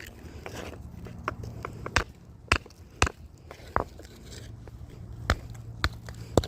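Hand strikes from shaping a stone hatchet: about nine sharp knocks at an irregular pace, roughly one every half second to a second and a half.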